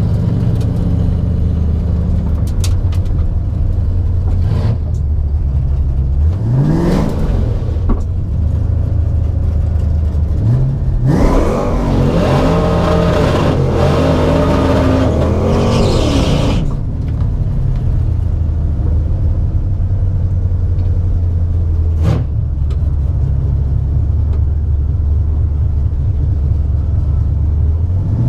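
1989 Mustang GT's 5.0 V8 with GT-40 heads running at a drag strip: a steady idle, a brief rev about six seconds in, then a wide-open-throttle run of about five seconds about eleven seconds in, its pitch climbing and dropping through the gears, before it settles back to a steady drone.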